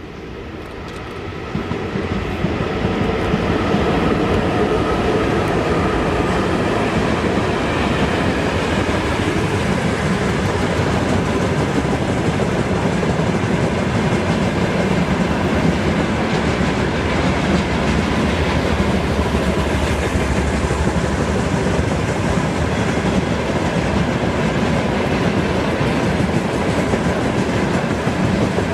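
Freight train hauled by a VL10U electric locomotive passing close by. The sound swells over the first few seconds, then holds as a steady, loud rumble with the clickety-clack of wagon wheels over the rail joints.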